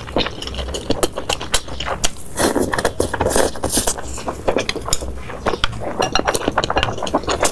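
Close-miked eating sounds: rapid, irregular chewing and crunching, with clinks of cutlery against dishes.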